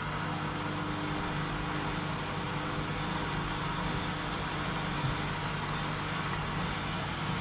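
Washing machine running mid-programme: a steady motor hum over an even mechanical whir, with one soft knock about five seconds in.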